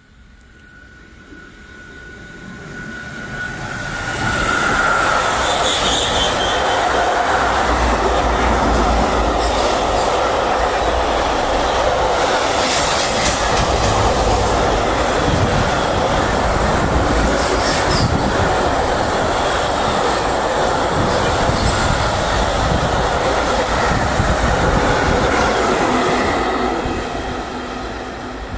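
Freight train approaching and passing close by: a steady high tone at first as it nears, then a long, loud rumble of rolling wagons with wheel clatter and occasional sharp squeals, fading near the end.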